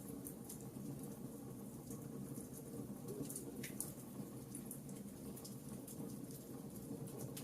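Wood campfire crackling: scattered sharp snaps and pops over a steady low rumble of the burning fire.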